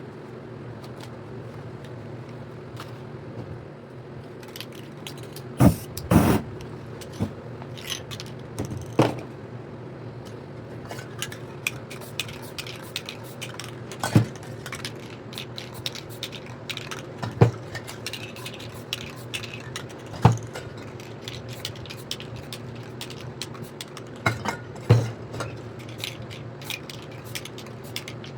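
Irregular knocks, clicks and light scraping of spray paint cans and tools being handled on a work surface, over a steady low hum.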